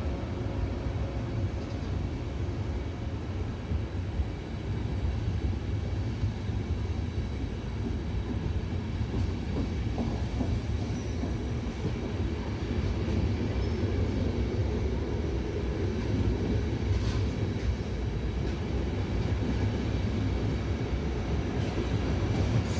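Train moving on the rails, a steady low rumble of wheels and running gear.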